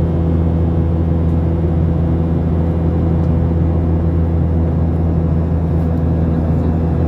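Steady low drone of a jet airliner's engines and airflow, heard inside the passenger cabin in flight, with a faint steady hum above it.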